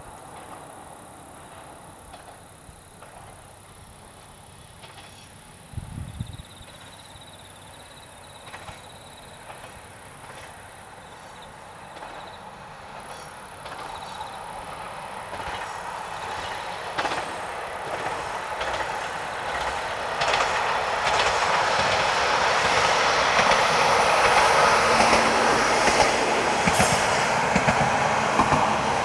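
Tarumi Railway diesel railcar running onto and across the Ibi River railway bridge. Its rumble grows steadily louder over the second half, with rapid clicks of wheels over the rail joints.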